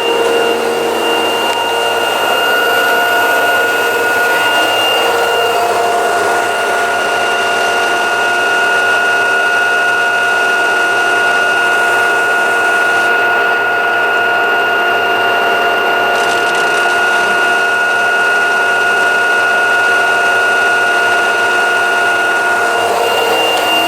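LG washing machine on a high-speed spin at 1200 rpm: a steady whir of motor and drum with constant tones and no knocking. The drain hose, now padded, no longer strikes the cabinet.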